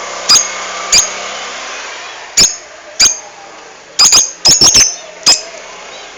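Lovebird giving about ten short, shrill chirps, spaced unevenly and bunched closely together about four to five seconds in, over a steady background hiss.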